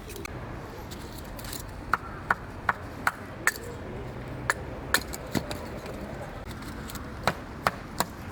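About a dozen sharp, light taps and clicks at uneven intervals, some with a brief metallic ring, over a steady background hiss.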